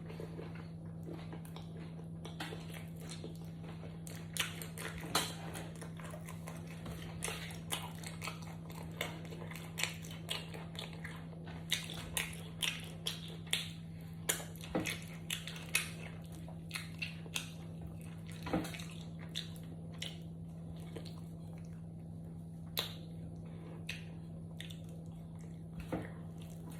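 Close-up eating sounds: chewing with many short, irregular clicks and taps, as of a utensil or fingers on a plate, over a steady low hum.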